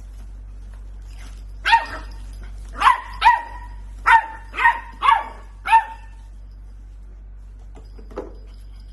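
A dog barking: seven short, sharp, high-pitched barks in quick succession, starting nearly two seconds in and ending about six seconds in, over a steady low hum.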